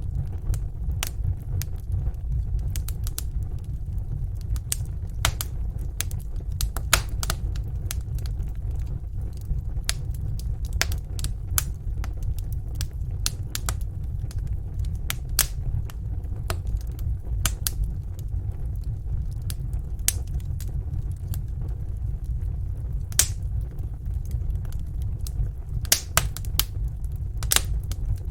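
Wood fire in a fireplace crackling, with irregular sharp pops and snaps over a steady low rumble of the flames; a few louder pops come in the second half.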